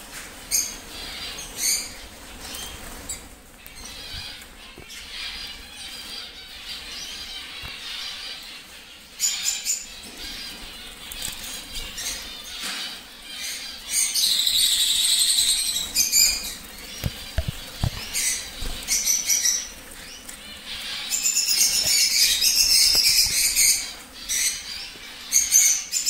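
Cage birds such as parakeets and finches chirping and calling in short bursts, with two longer stretches of loud chattering, one past the middle and one near the end.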